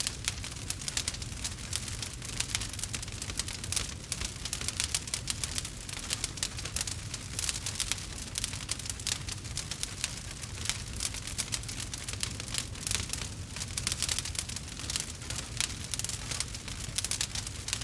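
Wood fire crackling steadily, with many small irregular pops and snaps over a low rumble.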